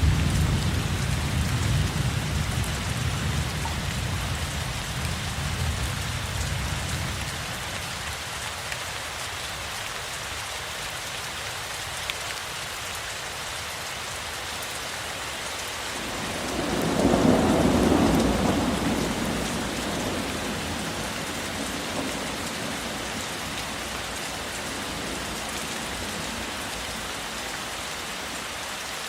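Steady rain with thunder. A low rumble fades out over the first several seconds, and about two-thirds of the way through another roll of thunder swells up and dies away.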